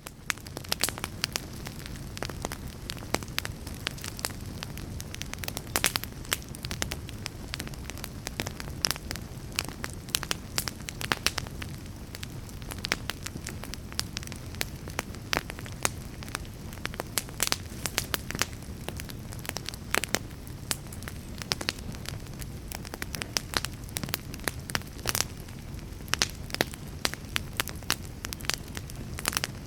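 Fire crackling: irregular sharp pops and snaps over a steady low rushing hiss.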